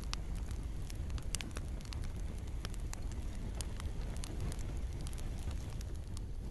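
Campfire crackling, with frequent irregular sharp pops and snaps over a steady low rumble, and gentle rain falling in the background.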